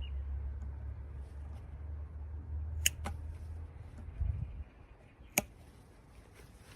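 Two sharp clicks about two and a half seconds apart, with a dull thump between them, over a low rumble that dies away about two thirds of the way through.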